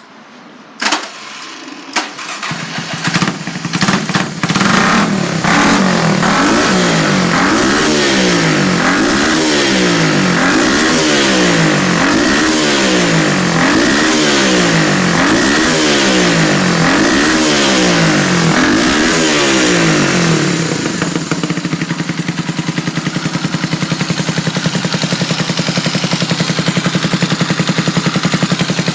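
1981 Honda CB250RS-Z single-cylinder four-stroke engine being started: a few sharp clicks, then it catches about two seconds in. The throttle is blipped over and over, the revs rising and falling about once a second, before it settles to a steady idle about 21 seconds in.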